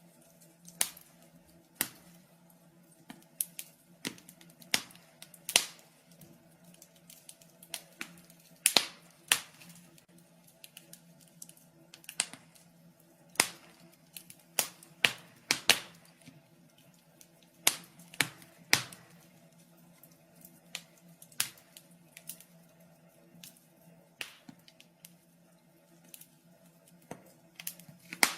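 Wood fire crackling in a fireplace: irregular sharp pops and snaps, roughly one or two a second and bunched in places, over a faint low steady hum.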